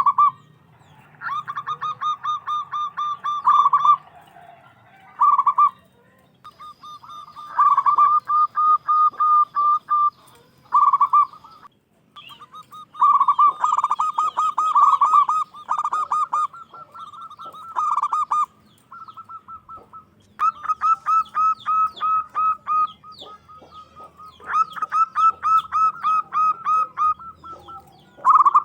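Zebra dove (local perkutut) singing: phrases of rapid, rolling coos a few seconds long, repeated again and again with short pauses between them.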